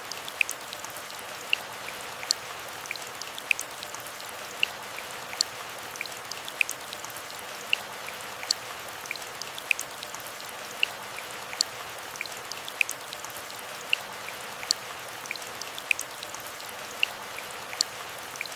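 Gentle rain falling in a forest: a steady soft hiss with frequent separate drips, single drops striking leaves about once or twice a second.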